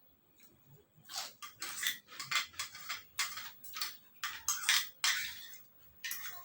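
Close-up eating sounds from a meal of spicy seafood papaya salad with rice noodles: an irregular run of short, sharp crunches, clicks and scrapes, about two or three a second, starting about a second in.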